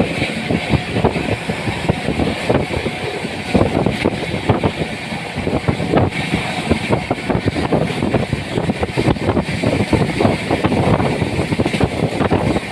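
Express train running at speed, heard from on board: a steady rumble and rush with irregular wind buffeting on the microphone.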